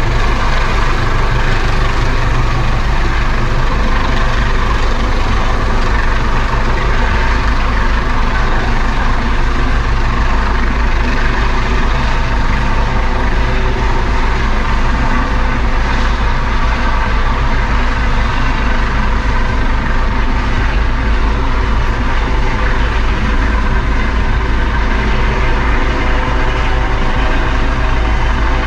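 Helicopter rotor and engine noise, steady and loud, as during a hoist.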